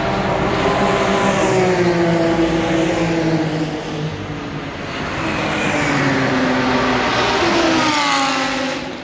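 Sports car engine running hard at track speed. Its pitch slides slowly down twice, over a steady rush of wind and tyre noise.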